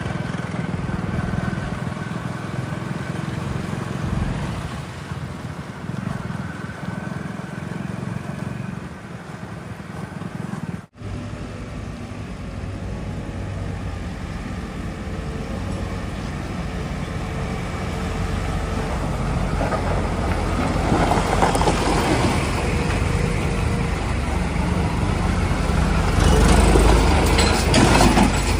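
Diesel engine of heavy machinery running steadily, with a brief break partway through. It gets louder and rougher in the last few seconds.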